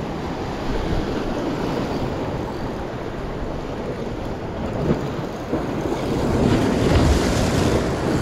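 Sea waves washing against rocks, with wind buffeting the microphone; a louder wash swells in near the end.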